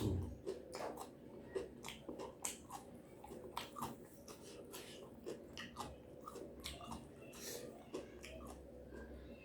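A person biting and chewing food close to the microphone: an irregular run of short clicks and mouth smacks, with a louder knock right at the start.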